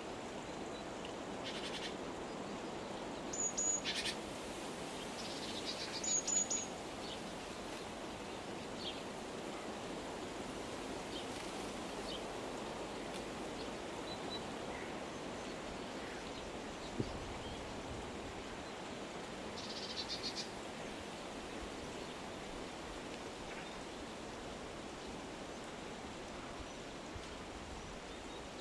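Birds calling outdoors in short high chirps, loudest a few seconds in, again about six seconds in and near twenty seconds, with fainter chirps in between, over a steady background hiss.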